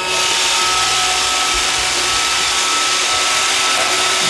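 iRobot Roomba 560 robot vacuum running on a straight run, its vacuum motor and brushes making a steady whir with a steady high whine.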